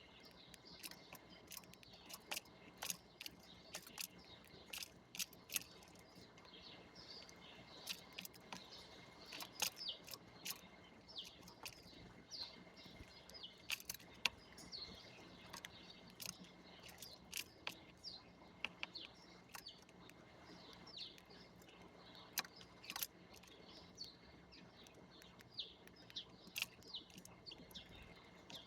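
Small birds chirping busily with many short calls, mixed with frequent sharp clicks and ticks.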